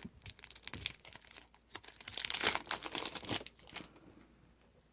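Trading card pack wrapper crinkling and tearing as it is opened, in rapid crackling bursts that peak past the middle and then die away.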